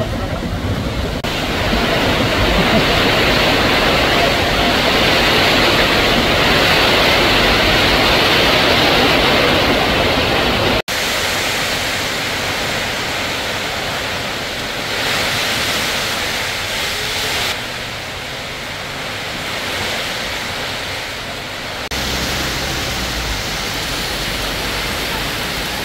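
Heavy rain pouring down, a loud steady hiss. It breaks off abruptly about eleven seconds in and resumes softer, rain on a corrugated metal roof heard from inside a building. Near the end it becomes rain falling on a wet paved street.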